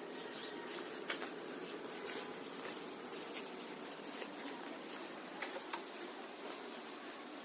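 Steady background hum with scattered sharp clicks and taps at irregular intervals.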